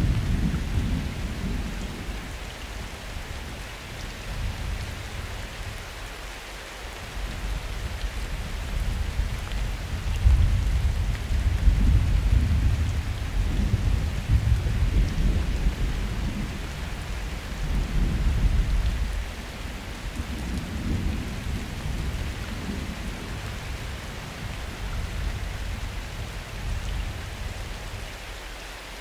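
Summer thunderstorm: steady rain hissing on surfaces, with long rolls of low thunder that swell and fade, one fading at the start and a longer rumble from about eight to nineteen seconds in.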